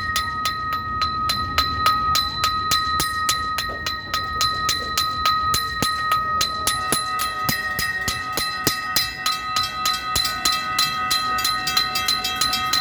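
A bell rung rapidly and evenly, about four strikes a second, each strike ringing on into the next.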